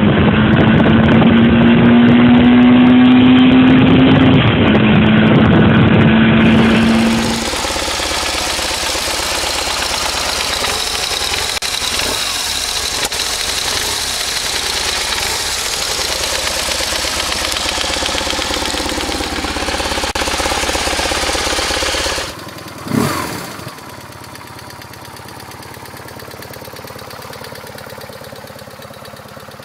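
BMW R 1100RS boxer-twin motorcycle engine: it accelerates hard with a rising pitch and an upshift about four seconds in, then runs at a steady, lower level; near the end it gives one short rev blip and settles to a quieter idle.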